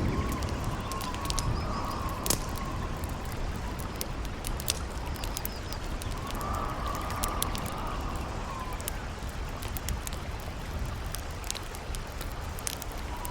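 Campfire crackling with frequent sharp pops over a steady rush of river water, while a howling wind whistles, rising and falling in pitch near the start and again about six seconds in.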